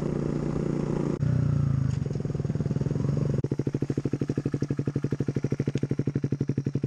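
Motorcycle engine running with a steady drone, changing abruptly about a second in; about halfway through it settles into a fast, even pulsing beat of roughly ten pulses a second.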